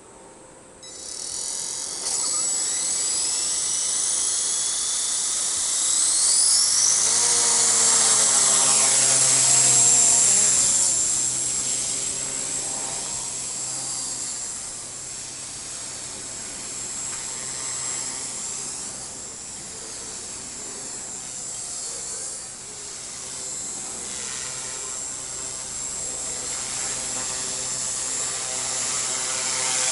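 Walkera Master CP micro RC helicopter with a 3800KV brushless main motor spooling up: a high whine rises in pitch over the first several seconds, and a low rotor hum joins it. It then runs steadily, the whine holding high while the level rises and falls.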